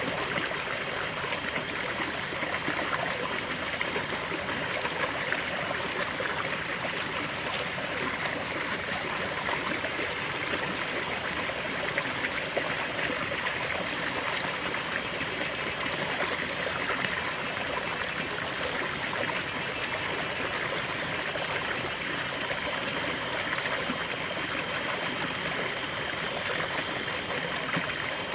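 Small forest waterfall and stream: water flowing and splashing over rocks in a steady, even rush.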